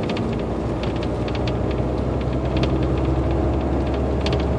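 Semi truck's diesel engine running, heard from inside the cab as a steady low drone, with light irregular ticking over it.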